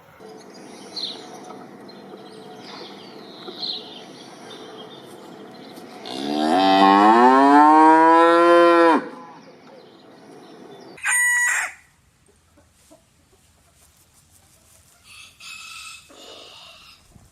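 A cow moos once, a long, loud call rising in pitch, about six seconds in. A short high-pitched call follows about two seconds after it ends, over faint bird chirps.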